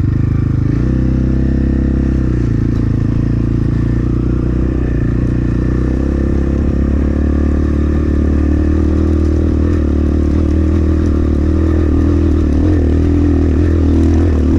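Templar X 250 dirt bike engine running at a low, fairly steady speed while riding a rough trail. The pitch shifts a little in the first two seconds, then holds.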